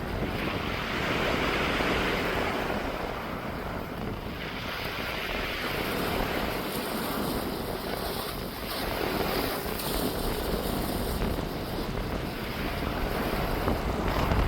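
Sea waves washing in, the hiss swelling and fading every few seconds, with wind rumbling on the microphone.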